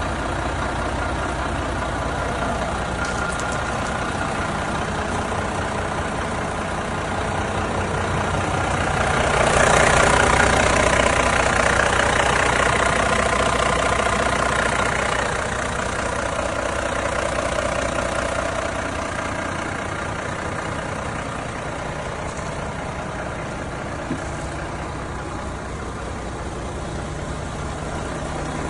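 2011 Iveco AS440ST truck tractor's diesel engine idling steadily. It grows louder for several seconds around the middle, then settles back.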